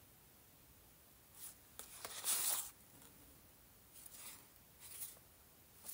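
Paper rustling as a handmade journal's pages and inserts are handled: a brief brush about a second and a half in, a louder sweep just after two seconds, then two softer rustles near the end.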